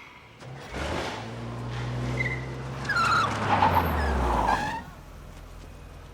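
Car engine revving hard as the car takes off, with tyres squealing over it; the noise cuts off about five seconds in.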